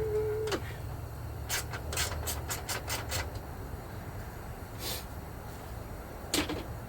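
A hand ratchet clicking in a quick run of about seven strokes as a headlight mounting bolt is tightened, with a single click again near the end. A low steady hum runs underneath.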